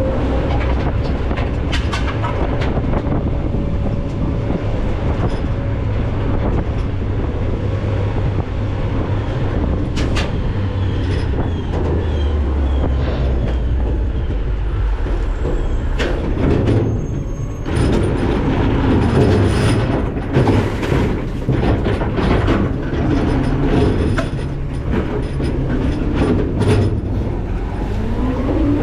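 McNeilus ZR rear-load garbage truck running its packer: a steady diesel engine rumble and hydraulic whine under many sharp cracks and crunches as trash is crushed in the hopper, busiest in the second half. Near the end the engine pitch rises and falls.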